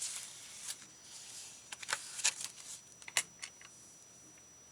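Small craft supplies being handled on a desk: light rustling and a few sharp clicks and taps, the loudest about two and three seconds in.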